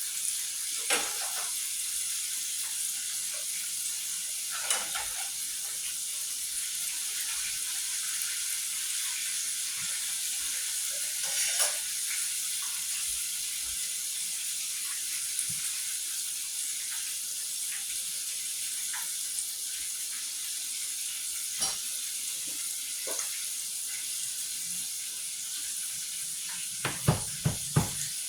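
Buttermilk-breaded chicken frying in hot oil in a pan: a steady sizzle with scattered pops. A few sharp knocks come near the end.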